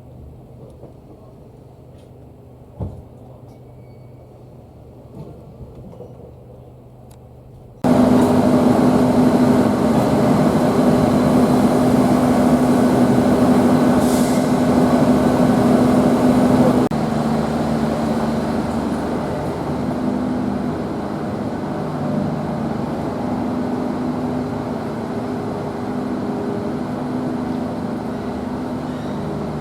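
Train sounds: fairly quiet with one knock, then a diesel locomotive engine that cuts in loudly about 8 s in as a steady hum. About 17 s in it drops in level and goes on running with shifting tones.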